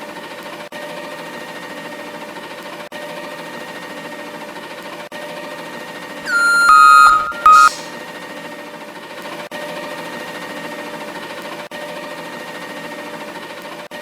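A steady electronic hum with two loud beeps about halfway through, the first longer and dropping slightly in pitch as it starts.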